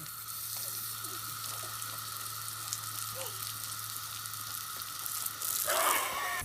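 Steady hiss with a low hum beneath it, a few faint short chirps, and a louder rush of noise about six seconds in.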